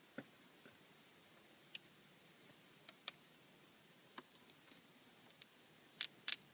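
Scattered faint ticks and crackles of clear application tape being peeled off a vinyl decal on windshield glass, growing sharper and more frequent near the end.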